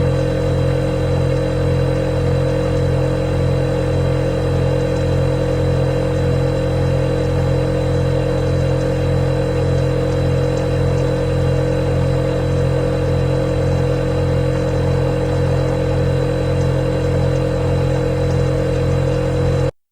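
Refrigerator compressor running with a steady, loud hum and a faint high whine. It cuts off abruptly near the end.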